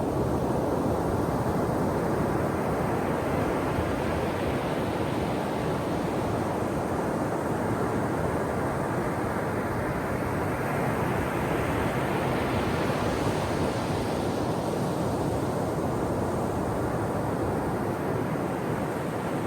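Ocean surf washing continuously on the shore, a steady dense rush. About two-thirds of the way through, the hiss swells brighter as a wave comes in, then eases back.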